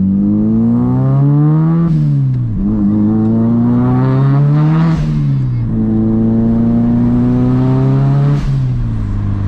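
Turbocharged car engine accelerating hard through the gears. The pitch climbs steadily in each gear and drops sharply at three upshifts, about every three seconds.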